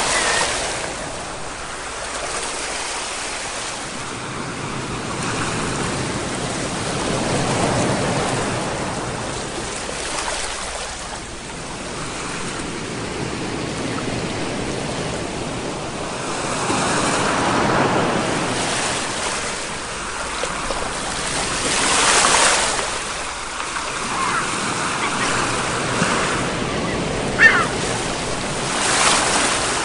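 Ocean surf: waves breaking and washing in, the rush swelling and falling back every several seconds. A brief high sound cuts through near the end.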